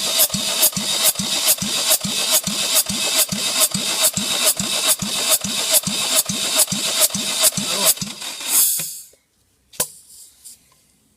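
Ford Focus 2 SHDA 1.6 Duratec four-cylinder petrol engine being cranked over by its starter, a steady beat of about four compression strokes a second, without catching. The cranking stops about eight seconds in, followed by a brief hiss and a single click.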